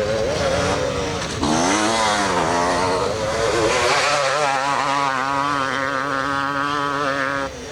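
Two-stroke 250 cc motocross bikes revving on the track, their engine pitch rising and falling. The level drops suddenly near the end.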